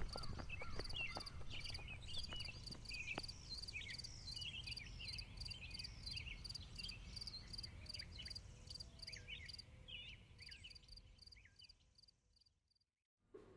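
Nature ambience: an insect chirping in a steady high pulse about three times a second, with birds twittering in short chirps over it, fading out near the end.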